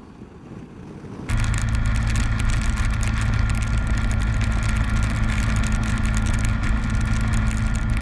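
Honda ST1300 Pan European's V4 engine at steady cruising speed, a constant drone mixed with wind and road noise. It cuts in abruptly about a second in.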